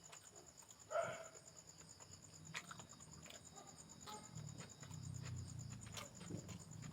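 Faint eating sounds: chewing with scattered small clicks and taps, and one short, louder sound about a second in.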